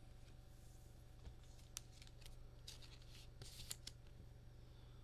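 Faint swishes and ticks of baseball trading cards being slid and flipped by hand, a handful of short strokes over a low steady hum.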